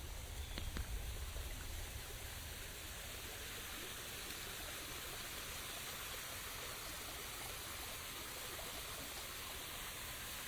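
Steady rain falling, an even hiss, with a low rumble in the first couple of seconds.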